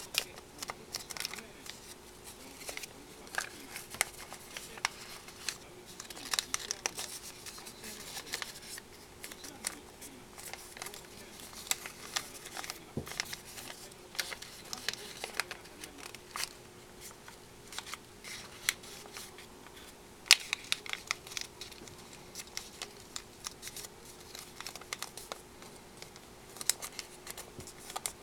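A sheet of origami paper being folded and creased by hand: irregular crinkles and short sharp crackles of paper, over a faint steady hum.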